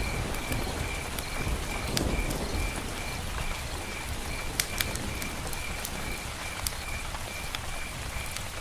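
Steady rain falling, with scattered sharp drip ticks and a low rumble of thunder dying away in the first couple of seconds. A faint high chirp repeats about two to three times a second throughout.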